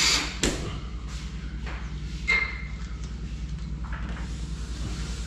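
A power drill's whir cuts off at the start. A sharp click follows about half a second in, then a knock on metal with a short ring about two seconds later, over a steady low hum.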